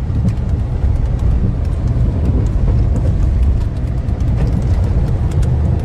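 Moving vehicle on the road: a steady low rumble with road and wind noise.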